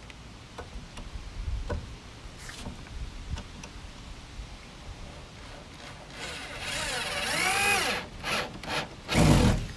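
Power drill driving a screw into wood, the motor speeding up and then winding down over about two seconds, after a few light knocks. A short burst or two and one loud knock of handling follow near the end.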